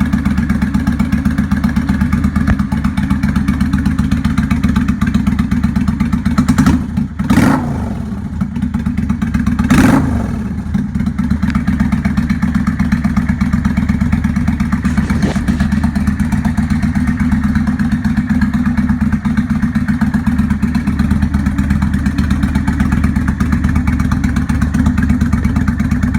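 1997 Kawasaki Vulcan 800 Classic V-twin running through Vance & Hines aftermarket exhaust pipes, idling steadily with a loping beat. It is blipped twice, about 7 and 10 seconds in, revving up sharply and dropping back to idle, with a lighter blip near 15 seconds.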